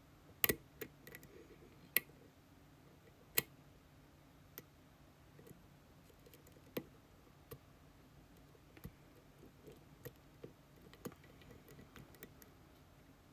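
Small metallic clicks from a lock pick and tension wrench working the pins inside a Gege pExtra+ lock cylinder, with tension eased to let some set pins drop. Three sharper clicks come in the first three and a half seconds, then softer clicks scattered through the rest.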